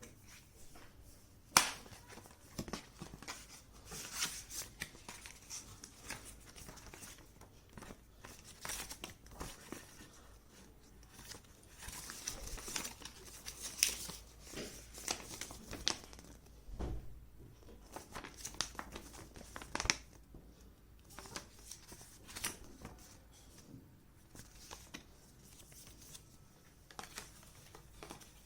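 Paper and plastic packaging rustling and crinkling as the laptop's manuals and papers are handled and unwrapped, with scattered small taps and one sharp click about a second and a half in.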